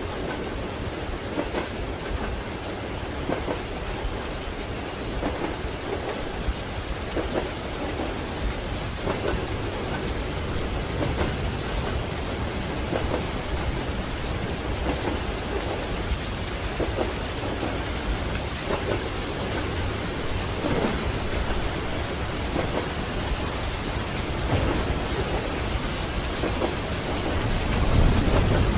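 Steady rain on a train compartment window over a deep low rumble, with soft knocks from the train's wheels on the rails. The rumble swells near the end.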